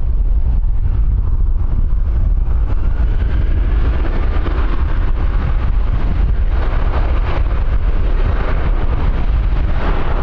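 Strong wind buffeting the microphone as a steady low rumble, with an aircraft engine underneath: a faint rising whine a couple of seconds in and engine noise that grows through the second half.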